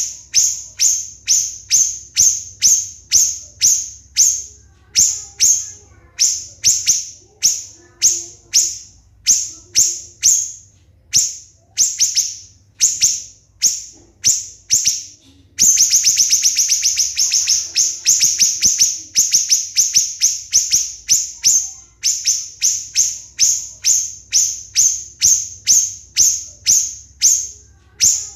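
Siri-siri bird calling in shrill, sharp notes, about two a second. Roughly halfway through they run together into a fast, rapid-fire volley for a few seconds, then the steady notes return.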